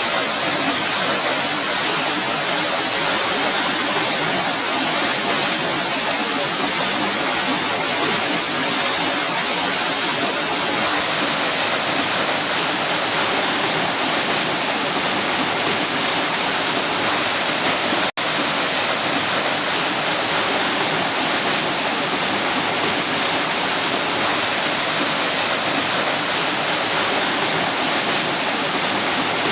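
A small waterfall pouring, a steady loud rush of falling water, broken by a split-second dropout about two-thirds of the way through.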